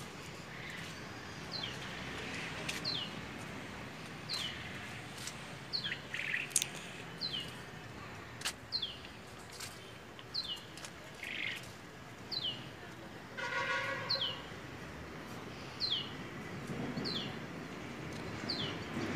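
A bird calling over and over: a short call of two quick high falling notes, repeated about once a second.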